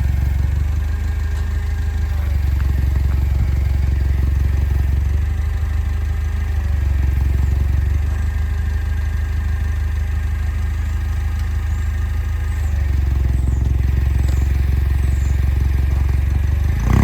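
A vehicle engine running with a steady low drone, its pitch and level shifting slightly every few seconds.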